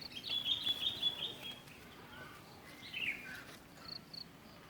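Bird chirping: a rapid run of high chirps in the first second and a half, a call sliding down in pitch about three seconds in, and two short high notes near four seconds.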